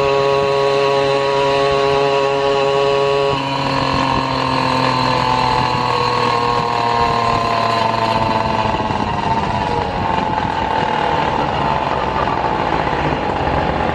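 A vehicle's drive whine made of several steady pitched tones, which change abruptly about three seconds in and then fall slowly in pitch as the vehicle slows.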